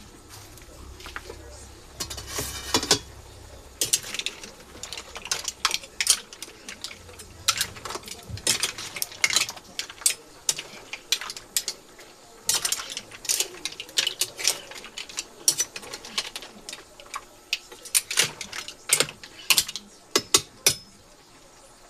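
Hard mussel shells clicking and clacking against each other as they are handled, in quick irregular bursts.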